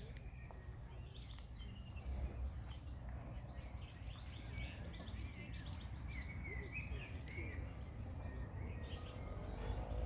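Several small songbirds chirping and trilling, with brief calls overlapping throughout, over a steady low background rumble.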